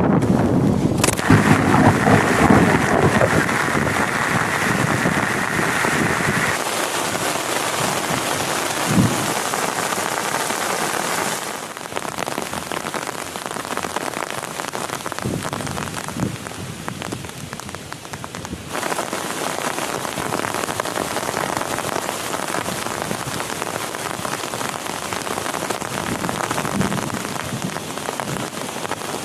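Heavy rain falling steadily, with low thunder rumbling through the first several seconds. The rain's character shifts abruptly a few times.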